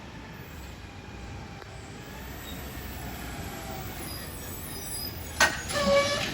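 Garbage truck rumbling faintly, then a sharp clunk a little past five seconds in, followed by a high metallic squeal with several overtones.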